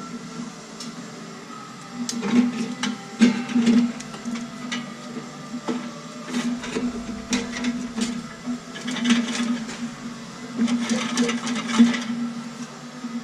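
A power tool's motor whirring in two spells, a couple of seconds each, with sharp metallic clicks and knocks of exhaust parts being worked on.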